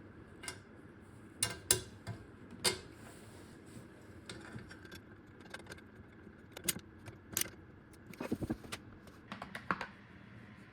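Irregular sharp metallic clinks and clicks of hand tools and metal parts being handled during car subframe assembly, with a quick run of clicks about eight seconds in.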